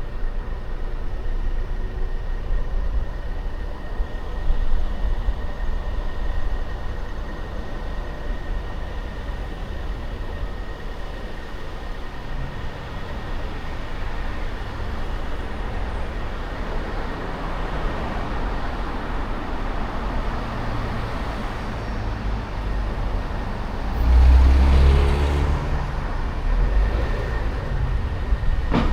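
Car driving on city streets: a steady low rumble of engine and tyre noise, swelling into a louder, deeper rumble for about two seconds near the end.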